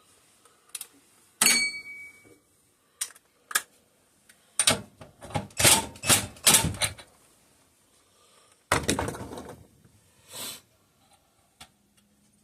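Metal hand tools clicking and clinking on a small engine: scattered sharp knocks and quick runs of clicks, with one ringing metallic clink near the start.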